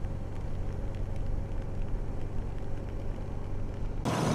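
Honda Transalp XL650's V-twin engine running steadily under a low hum of road noise. Near the end the sound switches abruptly to a louder, noisier rush.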